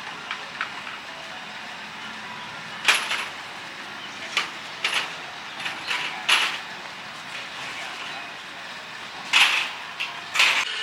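Steady background noise broken by about eight short, sharp knocks or clatters, the loudest about three seconds in and again near the end.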